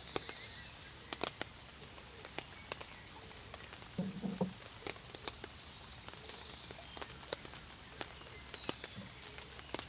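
Light rain with a steady hiss and drops tapping irregularly, a few at a time, plus a soft low thump about four seconds in. Short, thin, high chirps sound on and off over the top.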